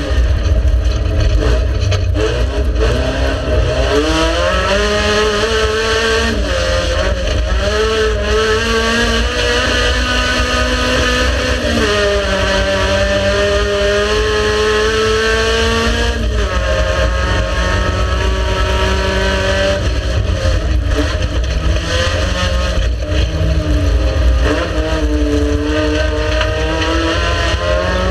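Race car engine running hard, its pitch climbing and then dropping sharply with each gear change every few seconds, over a steady deep rumble.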